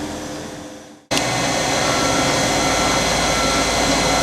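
Geared-head engine lathe running under power: a steady mechanical hum from the motor and gearbox, with a few constant tones. It cuts in suddenly about a second in, after quieter shop noise fades away.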